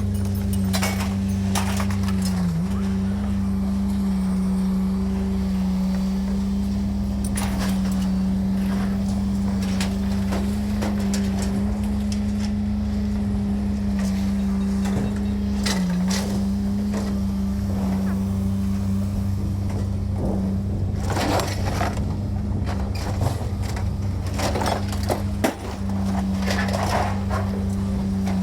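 A steady mechanical hum that dips briefly in pitch a few times, with scattered metallic knocks and clanks that come thicker near the end.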